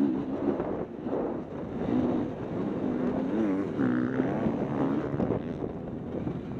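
Motocross bike engine revving up and down repeatedly under a rush of wind noise on the microphone.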